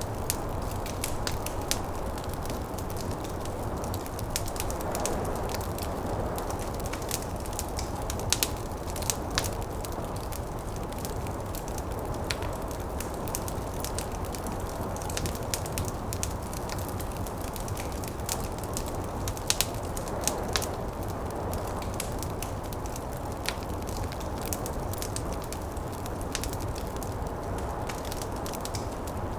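Wood fire crackling with frequent irregular sharp pops, over a steady low rush of snowstorm wind that swells and eases gently.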